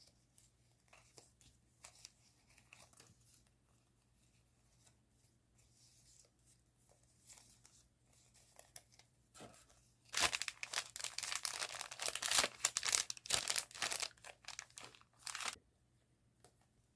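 Stationery packaging handled with faint rustles, then torn open and crinkled loudly for about five seconds from about ten seconds in, stopping suddenly.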